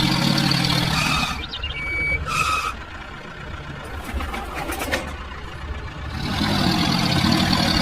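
A small motor on a mini model tractor running with a steady hum. It fades after about a second and comes back near the end, with a few short beeps and clicks in between.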